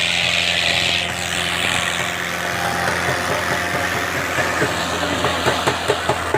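Fiat 640 tractor's diesel engine running steadily, with a rising hiss in the first second and quick sharp clicks growing more frequent near the end.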